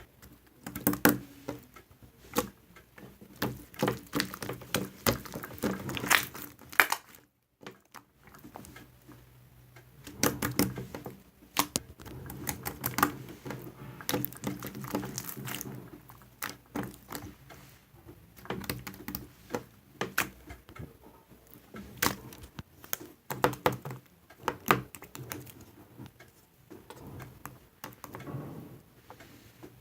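Many irregular clicks, taps and knocks, some loud and some faint, with a brief total silence about seven seconds in.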